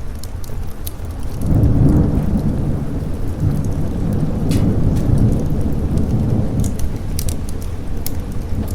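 A long roll of thunder that swells about a second and a half in and rumbles on over steady rain, with scattered sharp crackles on top.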